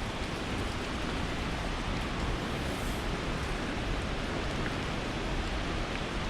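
Steady rushing noise of a tall waterfall in heavy flow, an even unbroken roar of falling water.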